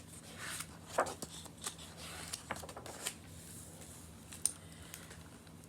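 Soft paper rustling and scattered light clicks as the pages of a picture book are handled and turned.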